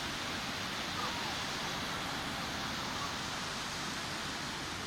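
Sea surf on a beach: a steady rushing wash of waves.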